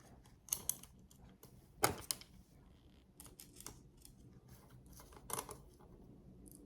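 Scattered small clicks and taps of handling tiny screws and an NVMe SSD on a PCIe adapter card, the loudest about two seconds in.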